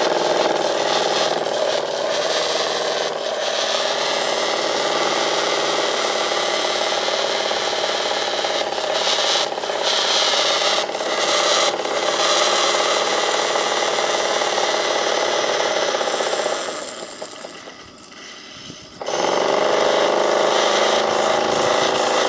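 Anton Cristal model steam engine running fast and steadily on steam at about 40 psi. Its sound drops away for a couple of seconds about seventeen seconds in, then comes back at full level.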